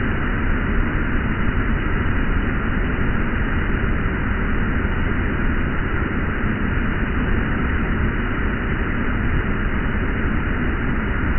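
Swollen stormwater rushing steadily down an earthen dam's spillway.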